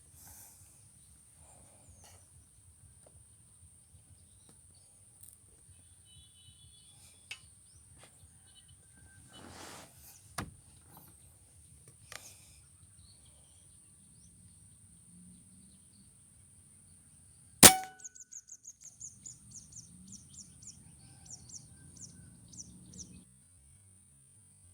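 A single sharp air-rifle shot, ringing briefly, about three-quarters of the way through, followed by a run of short ticks for about five seconds. A steady high whine runs underneath.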